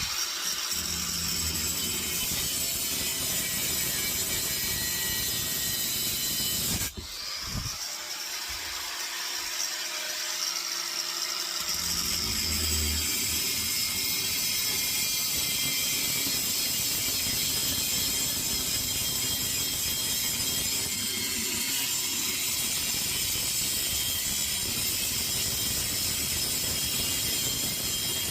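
Angle grinder fitted with a new cutting blade, cutting through the steel shell of a compressor: a steady grinding whine that cuts out briefly about seven seconds in and then carries on.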